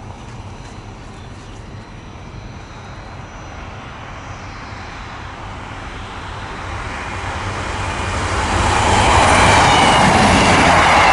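A large vehicle approaching: a steady rumble that grows louder from about six seconds in and stays loud from about nine seconds on.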